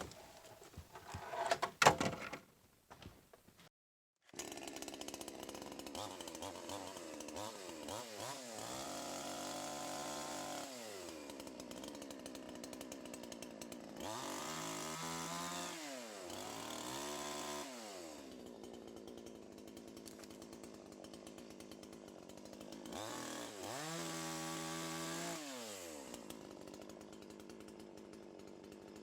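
Two-stroke gas chainsaw running at idle and revved up four times, each rev held for a second or two before dropping back, as it cuts through a log. A few sharp knocks come in the first two seconds, before the saw is heard.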